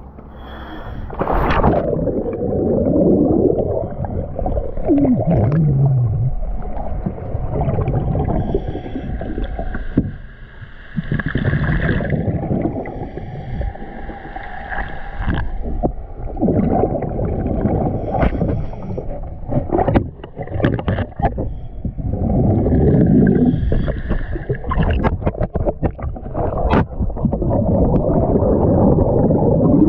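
Boat noise on the water: uneven churning and gurgling with low moaning swells and scattered knocks.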